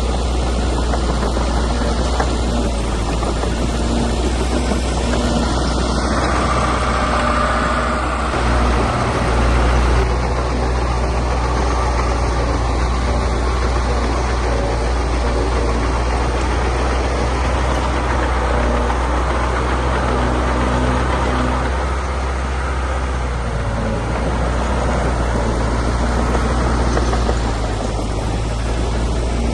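Heavy diesel earthmoving machinery running steadily under load, with a brief rise in level about eight to ten seconds in.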